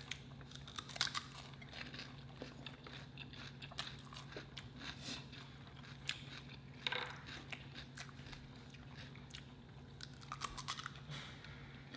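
Faint crunching and chewing of crisp fried catfish and fried green tomatoes being eaten, in scattered bites, the loudest about a second in and about seven seconds in. A low steady hum lies beneath.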